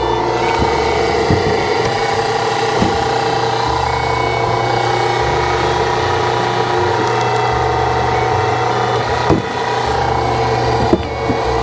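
Hydraulic log splitter running steadily under load as its wedge is forced into a log, with a few sharp cracks from the wood, the loudest about nine seconds in.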